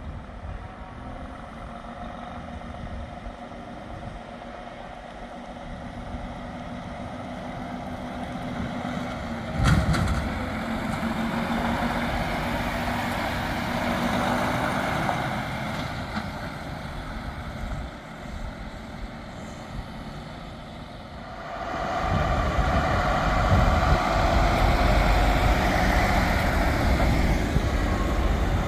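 Heavy trucks' engines running as they drive past, with a sudden loud burst about ten seconds in; the sound gets much louder and heavier from about two-thirds of the way through as a truck comes close.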